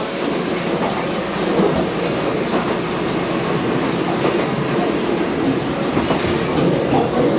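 Inside a moving subway train car: the steady running rumble and hiss of the train, with faint occasional clicks from the wheels on the track.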